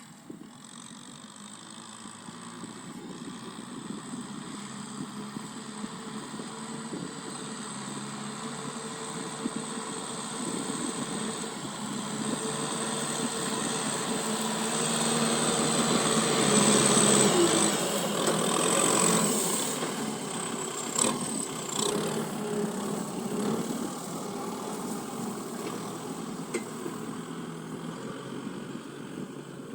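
Tractor engine running while ploughing, a steady drone that grows louder to a peak a little past halfway, then eases off.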